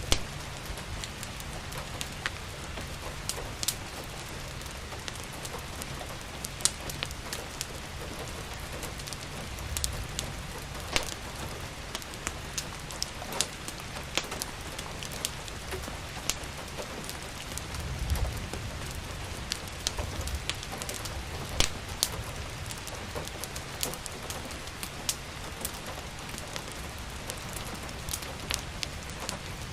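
Steady rain with the sharp, irregular crackles and pops of a wood fire, over a low rumble that swells briefly a little past halfway.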